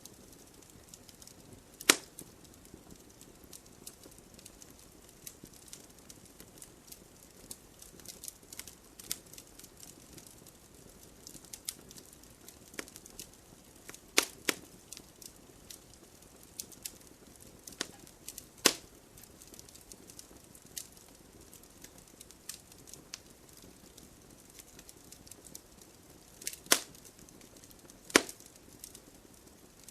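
Wood fire crackling: a steady scatter of small ticks and pops over a soft hiss, with about six louder sharp snaps spread irregularly through it.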